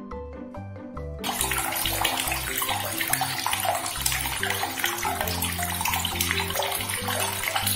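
Water running from a tap in a steady rushing stream, starting about a second in, over background music with steady low notes.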